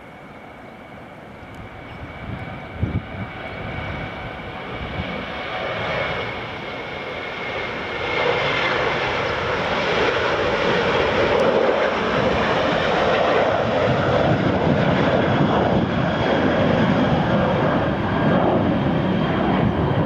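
Airliner engines growing steadily louder over about eight seconds, then running loud and steady, with a faint high whine over the roar.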